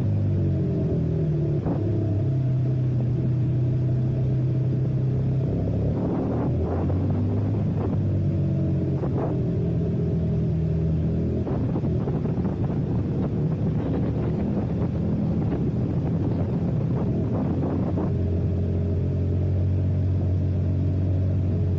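Ducati motorcycle engine running under way, holding steady revs for stretches and stepping to new pitches a few times as the revs change, with a few brief sharp sounds in between.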